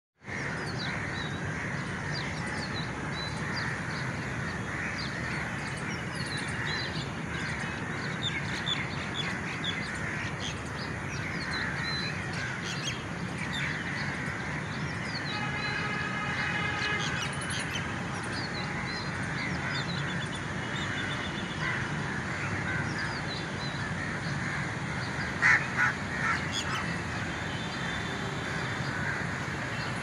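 Many birds chirping and calling over a steady background hum, with a call of several pitches held for a couple of seconds around the middle and two loud sharp calls near the end.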